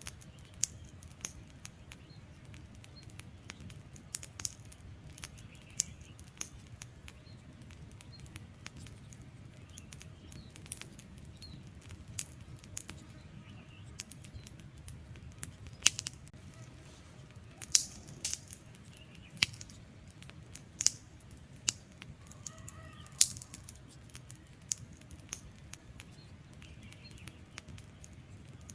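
Wood fire crackling: irregular sharp pops and snaps of burning logs over a low steady rumble of flame. A handful of louder pops come in the second half.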